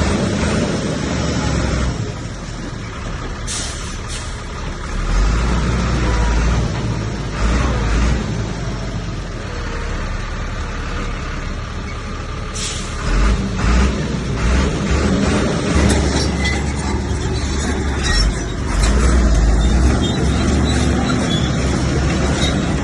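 Heavy diesel earthmoving machinery running, a deep engine rumble that swells and eases as it works. Short hissing bursts come about three and a half seconds in and again about thirteen seconds in.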